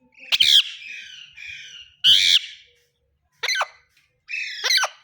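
Green parrot screeching: a loud harsh squawk just after the start and another about two seconds in, then two sharp falling screeches near the end, with raspy chatter between the calls.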